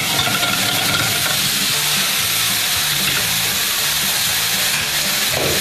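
Chopped bell peppers sizzling steadily as they sauté in a frying pan.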